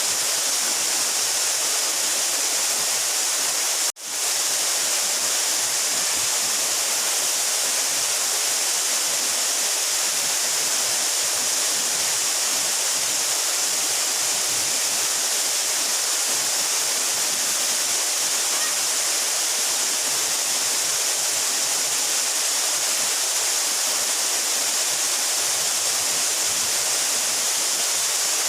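Steady rush of a 12-metre mountain waterfall: an even, hissing roar of falling water, strongest in the high range. It cuts out for an instant about four seconds in, then returns at once.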